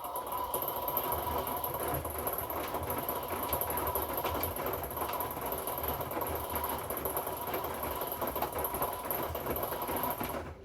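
Hoover washing machine's drum turning through a wash tumble, its motor running with a steady whine over the churn of the load. It starts abruptly and cuts off suddenly about ten seconds later, as the drum pauses.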